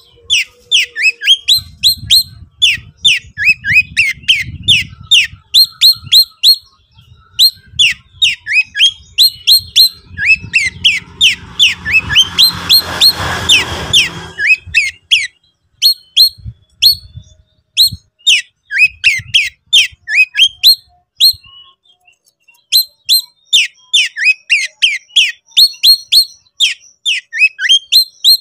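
Oriental magpie-robin (kacer) calling in the excitable 'konslet' style: fast runs of short, sharp, downward-sweeping chirps and whistles, several a second, broken by brief pauses. A rushing hiss swells and fades a little before the middle.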